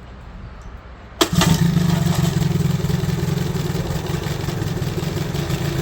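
Old outboard motor catches on a pull-start about a second in, then keeps running steadily.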